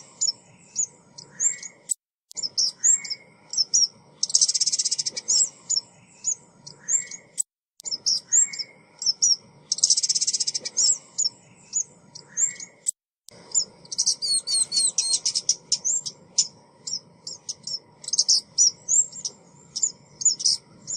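Recorded call of a female ốc mít, a small Vietnamese songbird, played as a decoy call to lure birds. High thin chirps and short buzzy trills repeat in a loop about every six seconds, with a busier run of chirps near the end.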